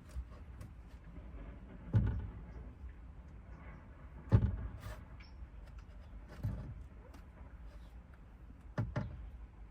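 A few scattered dull knocks and clunks, roughly two seconds apart, with a quick double knock near the end: parts and tools being handled and bumped during fitting work inside a car.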